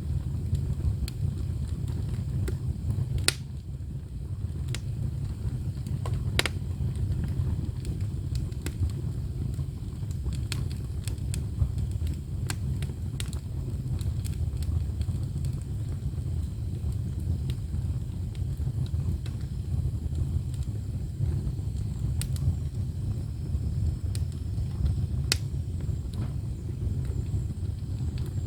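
Firewood burning in an ondol firebox: a steady low rumble with occasional sharp crackles and pops.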